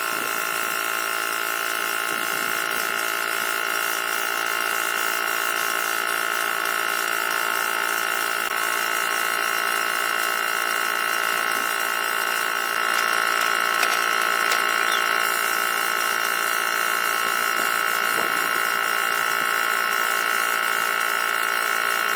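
A small electric motor running at a steady, unchanging high-pitched whine, getting a little louder about 13 seconds in.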